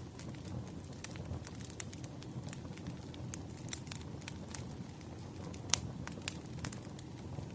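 Campfire crackling: a steady low rumble of burning wood with irregular sharp pops and snaps, the loudest pop about two-thirds of the way through.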